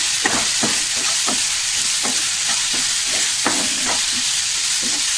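Chopped onions frying in hot oil in a non-stick kadai, a steady sizzle, while a spatula stirs them with irregular scrapes and taps against the pan.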